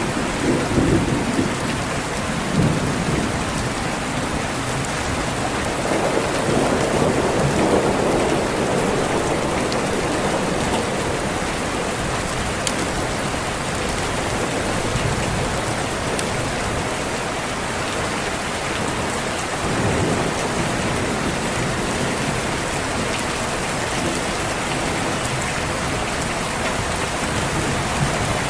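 Steady rain with rolls of low thunder: one near the start, a longer roll about six seconds in, and another around twenty seconds in.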